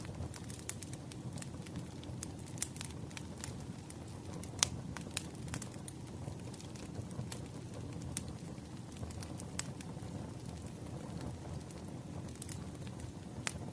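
Crackling wood fire: a steady low rumble of burning logs with irregular sharp pops and snaps.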